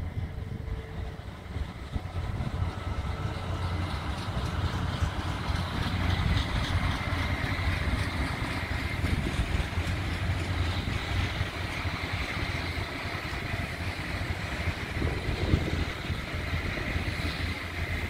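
Adelaide Metro commuter train passing at a distance: a steady low rumble, with the rolling noise of its wheels on the rails swelling about five seconds in and holding as the cars go by.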